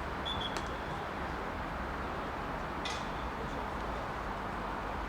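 Steady outdoor background noise at a football pitch, with a couple of faint, brief high sounds about a third of a second and three seconds in.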